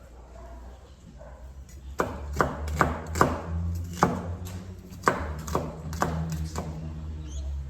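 A knife chopping on a cutting board: about a dozen sharp chops, two to three a second, beginning about two seconds in, over a steady low hum.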